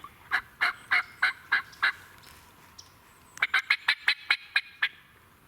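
Wild turkey yelping in two series of short, evenly spaced notes: about six at a steady pace, then after a pause a faster run of about nine.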